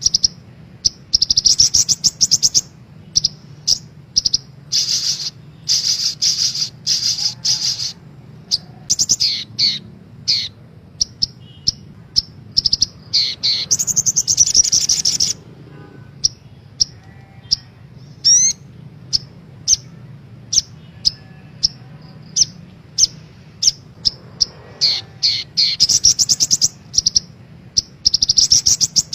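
Sogok ontong sunbird singing: repeated bursts of fast, high-pitched trills and sharp chirps, over a faint steady low hum. This is a lure song used to get caged sunbirds singing.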